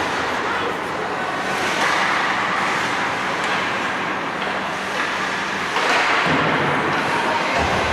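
Steady noisy din of an ice rink during a hockey game, with a faint low hum and a few faint sharp clicks.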